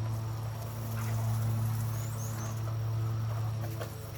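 A machine's steady low hum, with faint high bird chirps coming in quick runs of about three and a few short knocks.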